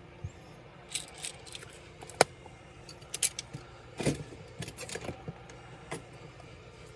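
Irregular light clicks and taps of small laptop parts and tools being handled during disassembly, with a busier run of rattling clicks around the middle.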